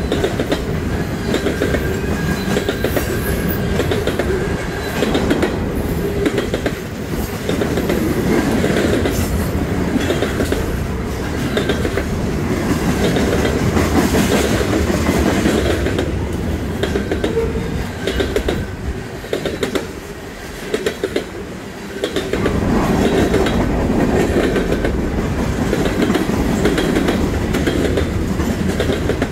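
Cars of a manifest freight train rolling past at close range, their steel wheels clicking over the rail joints in a steady run of beats. The sound dips briefly quieter about two-thirds of the way through, then comes back up.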